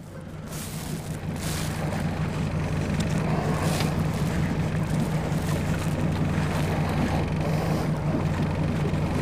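Boat motor running steadily at speed, mixed with rushing wind and water noise and a few brief louder gusts or splashes. The sound fades in over the first couple of seconds.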